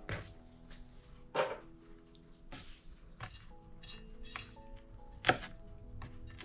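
Kitchen handling sounds: scattered clinks and knocks of dishes and utensils, about one a second, with the sharpest near the end, over soft background music.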